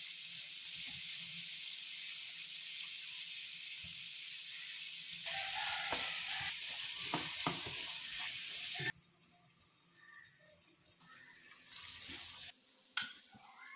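Chopped onions sizzling in hot vegetable oil in a kadai while a spoon stirs and scrapes them. The sizzle gets louder about five seconds in, with spoon knocks against the pan, then drops off suddenly about three seconds later, leaving quieter frying and occasional scrapes.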